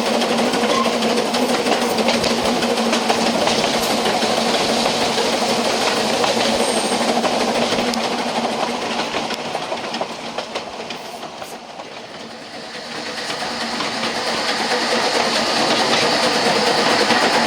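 Narrow-gauge railway carriage running along the line: a steady rumble and clatter of wheels on rail with a low hum. The noise dies down about two-thirds of the way through, then builds up again as the train picks up speed.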